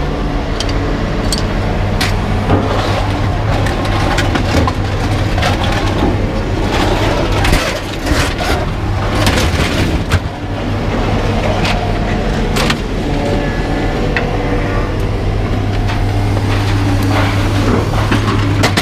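A vehicle engine runs steadily under a scatter of sharp knocks and clanks from scrap metal being handled and dropped.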